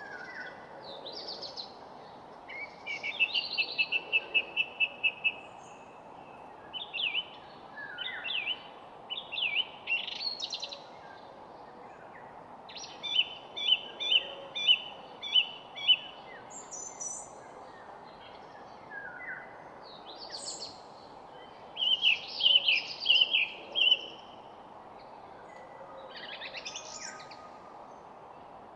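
Songbirds singing outdoors. Short phrases come every few seconds, several of them quick trills of repeated notes, over a steady background hush.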